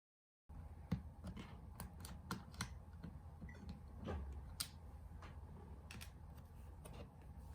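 A series of irregular light clicks and taps over a low background hum, beginning about half a second in after dead silence.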